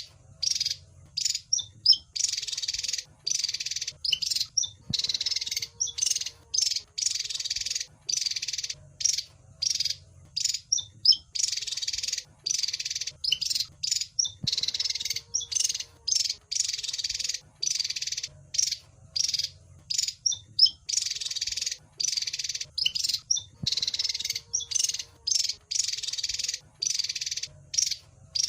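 Wergan jawa (Javan fulvetta) calling: runs of harsh, buzzy chattering calls broken by short quick notes, in a sequence that repeats about every nine seconds as a looped recording, over a faint low hum.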